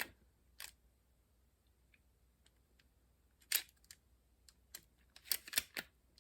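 Sharp clicks and snaps of a Macintosh 128K external floppy drive's eject mechanism being worked by hand. The clicks are scattered, with a loud one past the middle and a quick cluster of several near the end. The mechanism is hanging up, gummed with old grease.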